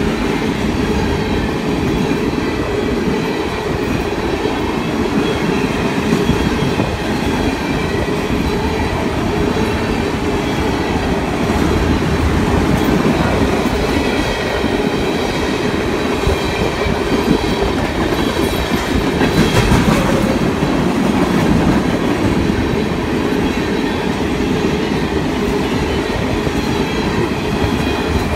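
Freight train rolling past at close range: a steady, loud rumble of the cars with the clickety-clack of wheels over the rail joints.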